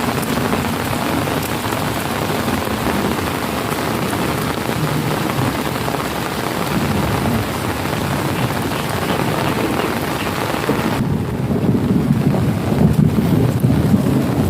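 Heavy rain pouring steadily, a dense even hiss. About eleven seconds in, the hiss drops away and a louder, uneven low rumble takes over.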